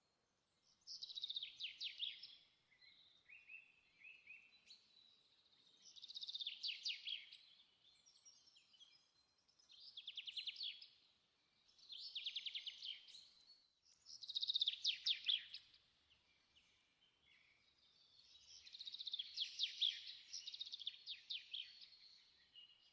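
A small songbird singing: six phrases of rapid trills and chirps, each a second or two long, with short pauses between.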